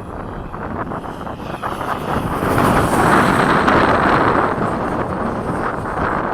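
70 mm electric ducted-fan RC jet (F/A-18 model) making a rushing whine that swells as it flies past, loudest about three seconds in, then eases off. Wind buffets the microphone underneath.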